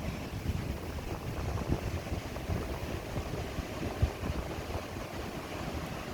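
Wind buffeting the microphone over the wash of ocean surf, with a sharp bump of wind about four seconds in.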